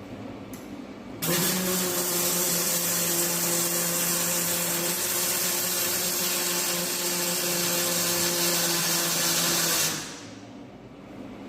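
Electric power tool working on a steel chassis frame. It starts suddenly about a second in, runs steadily with a hiss and a low motor hum for about eight and a half seconds, then winds down.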